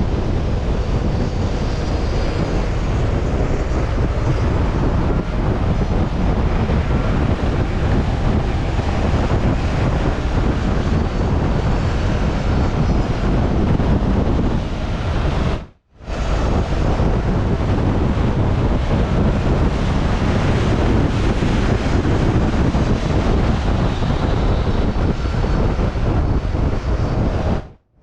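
Heavy wind rushing over the microphone on a moving Zero DSR/X electric motorcycle, with the motor's faint whine sliding up and down underneath. The sound drops out for a split second about halfway through.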